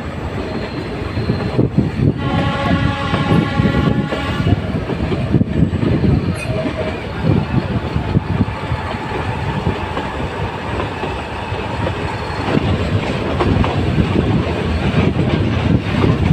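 Nilgiri Mountain Railway metre-gauge train running with a steady rumble, its horn sounding once for about two seconds a couple of seconds in.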